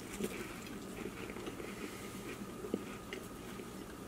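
A person quietly chewing a mouthful of an air-fried White Castle slider with a toasted bun, with one small click partway through.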